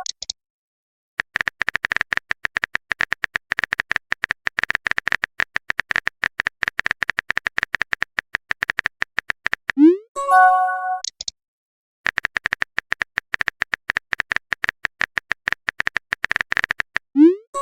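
Rapid keyboard-typing clicks, a chat app's typing sound effect, in two long runs. Each run ends in a short rising swoosh and a chime: a message sent or received notification.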